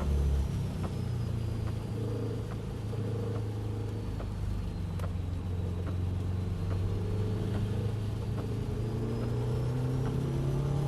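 Car engine running at speed on a wet race track, with a steady rumble of road and spray noise; the engine note eases about two seconds in and builds back up. Scattered light ticks sound over it.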